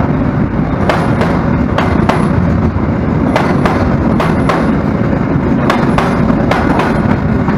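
Freight train of flat wagons rolling past, a steady loud rumble with the steel wheels clacking over the rail joints, mostly in quick pairs as each bogie's wheelsets cross.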